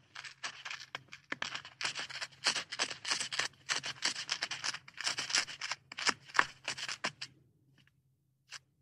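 Irregular run of crisp crunching clicks, several a second, like chewing. It stops about seven seconds in, with one more click near the end.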